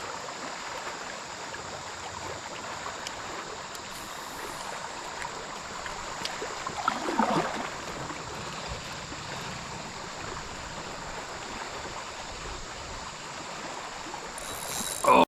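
Steady rush of flowing river water around a kayak, with a brief louder sound about seven seconds in.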